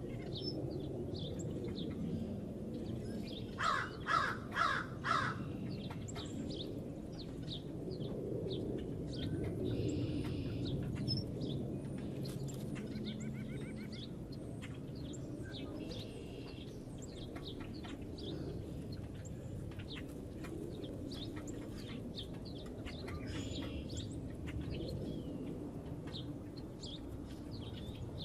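Wild birds at a feeder: a larger bird gives four loud calls in quick succession about four seconds in, while small birds chirp on and off throughout over a steady low background rumble.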